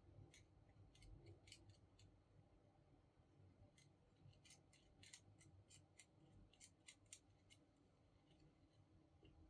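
Faint, irregular sharp clicks and ticks, about a dozen, thickest in the middle of the stretch, over a low hum.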